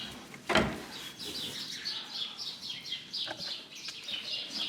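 Small birds chirping rapidly and continuously, with a single sharp knock about half a second in.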